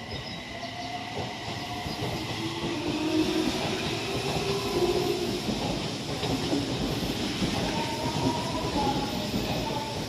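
Odakyu electric commuter train running close by. The rumble grows over the first couple of seconds and then holds, with wheel clatter and high tones sliding up and down over it.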